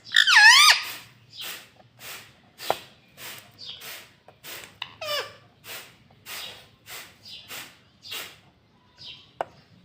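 A ringneck parrot gives one loud, wavering squawk, then a steady string of short, raspy chirps, roughly two a second.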